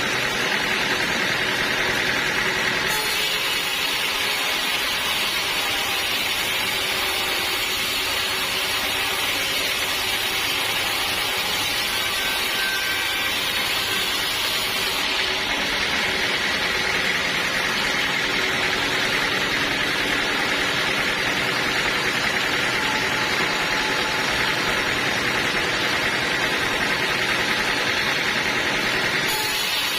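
Sawmill machinery running steadily through a teak log. Its tone changes abruptly about three seconds in, again halfway through, and once more near the end.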